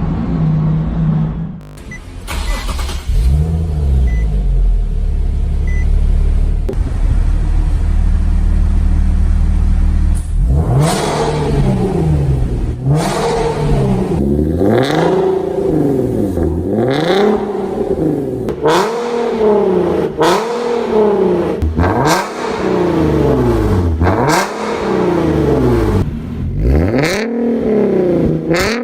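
Nissan 370Z's 3.7-litre V6 exhaust, running low and steady for about the first ten seconds, then revved over and over, the pitch climbing and dropping back every second and a half to two seconds. In the second half there are short sharp cracks between some of the revs.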